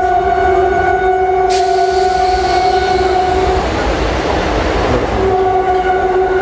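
Electric MEMU train running slowly past a parked rake of coaches, with a loud steady pitched tone throughout. A hiss starts abruptly about a second and a half in, and a rushing noise swells around four seconds in, briefly covering the tone.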